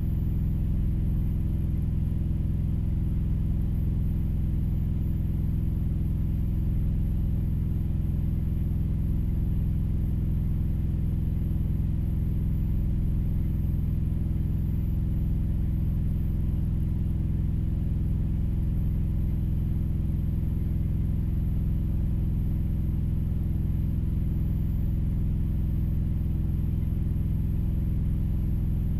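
Steady low rumble of an idling vehicle engine heard from inside the cab, unchanging throughout.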